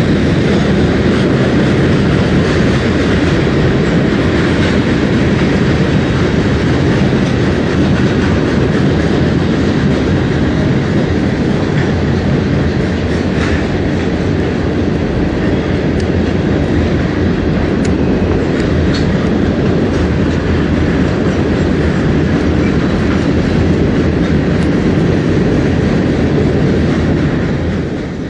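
Freight train rolling past close by, a steady loud rumble of railcars and wheels on the rails. It cuts off suddenly at the very end.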